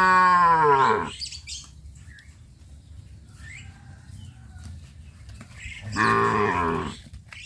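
Cows mooing: one call about a second long right at the start, dropping in pitch as it ends, and another about six seconds in. Faint bird chirps can be heard between the calls.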